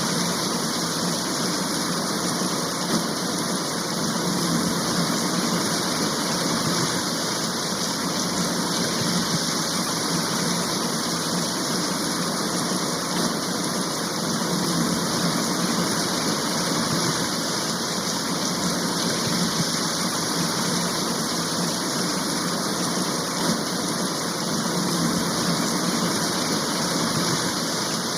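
Heavy rain shower falling steadily, a dense, even hiss with no letup.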